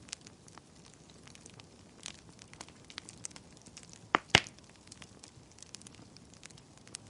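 Wood fire in a fireplace crackling, with scattered small snaps and two loud pops in quick succession a little past four seconds in.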